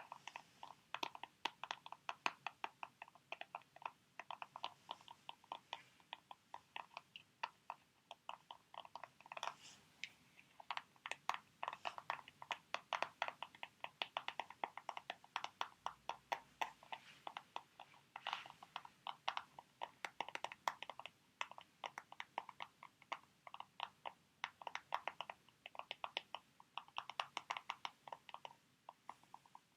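Fingernails tapping quickly on plastic sheet mask packets: a dense run of light, sharp clicks, several a second, with brief pauses.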